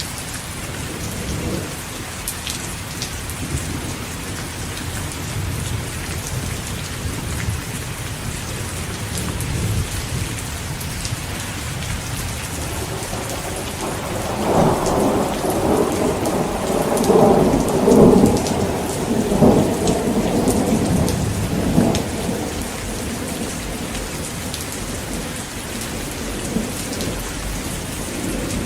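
Heavy rain falling steadily, with a long thunder rumble swelling up about halfway through and dying away after several seconds.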